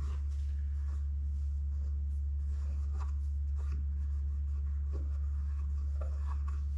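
Cloth wiping and rubbing, with a few light taps, over a steady low hum.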